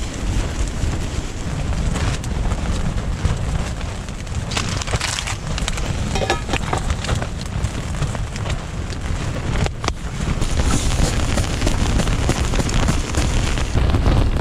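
Strong gusting wind buffeting the microphone: a heavy low rumble with a crackling hiss over it.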